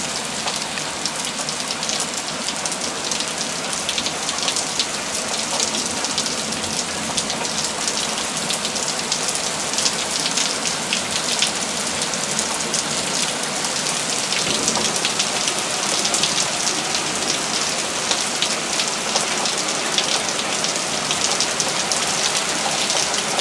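Heavy rain falling steadily, with many close drops pattering on a surface near the microphone during a thunderstorm downpour.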